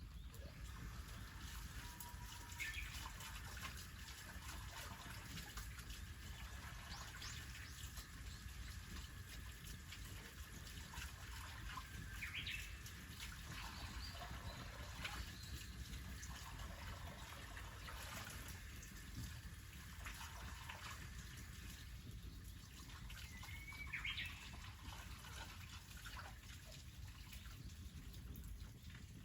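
Faint trickling water with a few short bird chirps.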